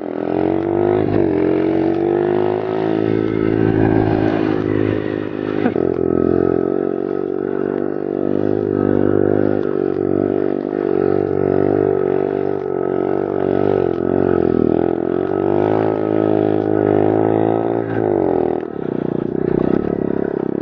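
Pit bike engine running hard while riding, its pitch climbing as it accelerates, dropping sharply about six seconds in, then climbing and falling again several times before easing off near the end.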